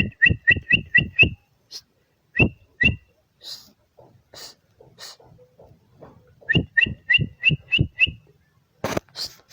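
Bar-winged prinia (ciblek) calling: sharp, whistled chip notes in quick runs of about six, roughly five a second, with a short pair between the runs.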